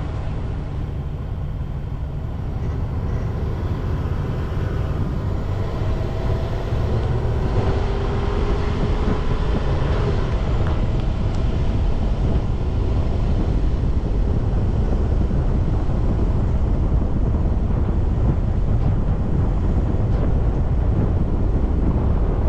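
Car driving along a road: a steady low rumble of engine and tyre noise, getting a little louder about a third of the way in.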